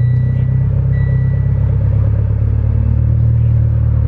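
Car engine running steadily, heard from inside the car, just switched to its E85 map and running normally.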